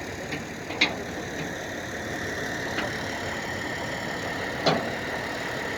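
An engine running steadily, with a few sharp knocks or clicks, one about a second in and a louder one near the end.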